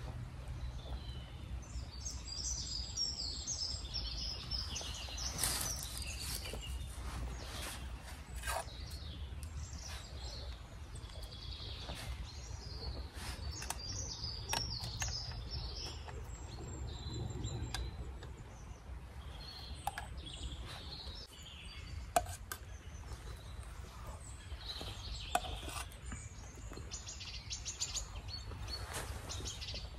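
Small birds chirping and singing on and off over a steady low rumble, with a few sharp clicks now and then.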